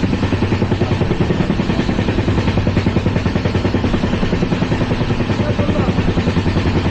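Running noise of an LHB passenger coach at speed: a steady, loud rumble of wheels on the track with a fast, even pulsing.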